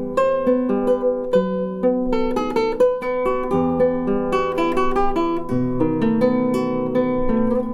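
Solo acoustic guitar playing a slow piece, plucked notes ringing over a held high note and a moving bass line.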